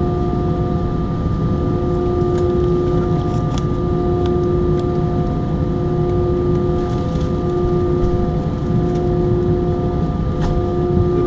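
Airbus A319's jet engines heard from inside the passenger cabin, running at steady low power: a constant rumble with an even, steady whine of several tones that neither rises nor falls.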